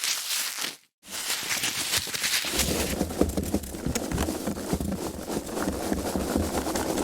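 Foam packaging being handled: dense crackling and rubbing. It cuts out briefly about a second in, and from about two and a half seconds in the handling gets heavier and fuller.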